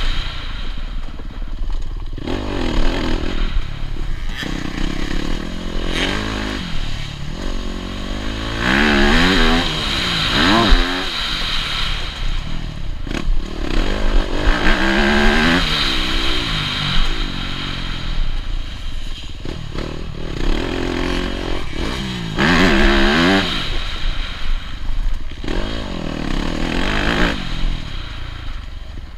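Yamaha YZ250F single-cylinder four-stroke motocross engine heard up close. It is revved hard and backed off over and over, its pitch climbing and dropping several times as the bike accelerates and slows.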